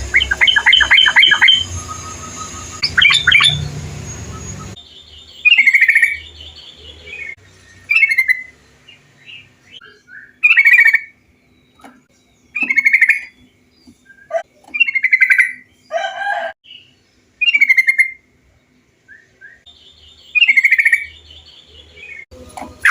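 Recorded bulbul song. The first few seconds hold a fast run of chirps over a hiss. After that come short, bright, bubbling phrases repeated about every two seconds, over a faint steady hum.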